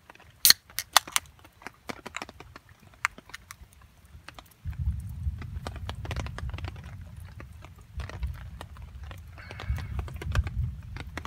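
Wood campfire crackling, with sharp, irregular pops and snaps, the loudest near the start. A low rumble comes in about halfway and continues under the pops.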